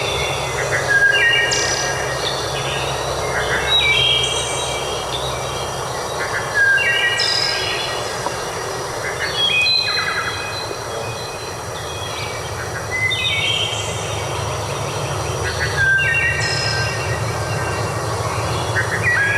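Songbird singing repeated phrases of clear whistled notes that step down in pitch, a new phrase every few seconds, over a steady background hiss.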